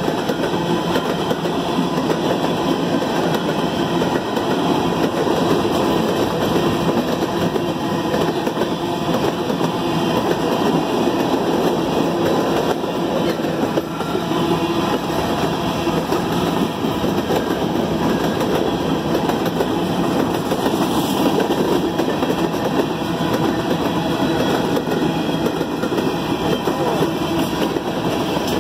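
Freight train cars, covered hoppers and tank cars, rolling past: a steady rumble of steel wheels on the rails that holds at an even level.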